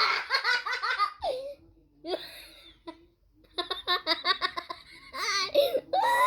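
A young child laughing and giggling in several bursts of rapid, high-pitched pulses, with short pauses between them.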